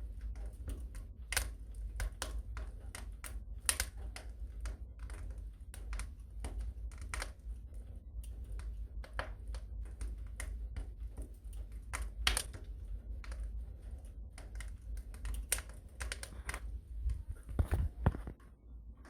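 Wood fire burning in a fireplace: irregular sharp crackles and pops over a steady low rumble of the flames, with a few louder pops, one about twelve seconds in.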